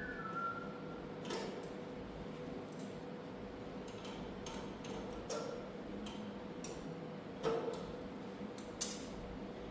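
Scattered metal clicks and knocks from hand work on a tractor attachment, with the sharpest click near the end, over a faint steady hum.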